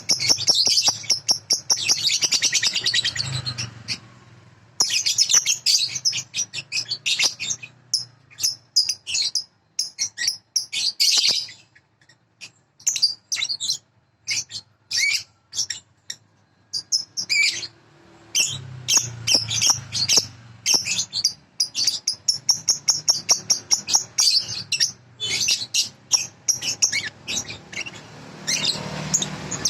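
Bird song in fast, high, chattering trills that come in long runs, with a stretch of sparser separate chirps about halfway through: a masteran recording, bird song played for young lovebirds to learn from.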